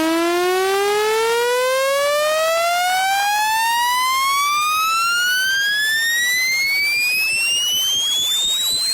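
Speaker-cleaner test tone: a single buzzy electronic tone sweeping steadily upward in pitch, from low to high, over about nine seconds. It is the kind of sweep played through a phone speaker to shake water and dust out of it.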